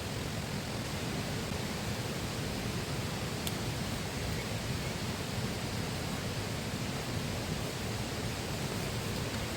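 Steady rush of a flowing river, an even wash of water noise that holds at the same level throughout.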